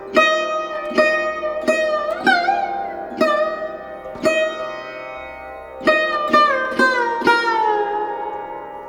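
Slow, relaxing instrumental music on a plucked string instrument. Single plucked notes ring over a steady drone, several of them bending up or down in pitch. A quicker run of plucks comes about six seconds in and ends on a long note that slides down and fades.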